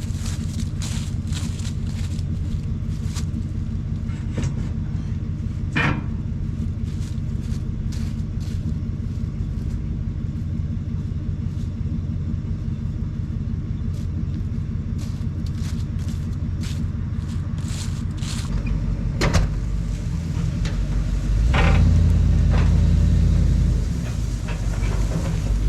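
A vehicle engine running steadily, then working harder and louder for a few seconds near the end before easing off, with a few metallic clicks and knocks.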